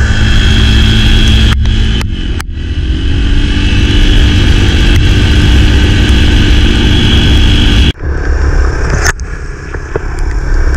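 Enduro motorcycle engine running steadily as the bike is ridden, with a few brief breaks in the sound about two seconds in and a short dropout near the end.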